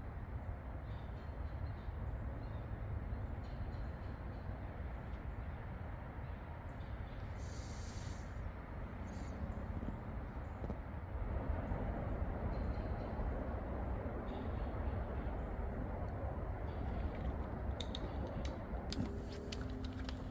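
Steady rumble of nearby highway traffic, swelling a little from about halfway through, with a few small clicks near the end.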